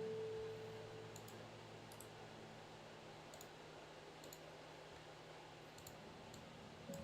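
Faint, scattered clicks at a computer desk, about eight in seven seconds, over a low steady hum; a held tone fades out within the first second.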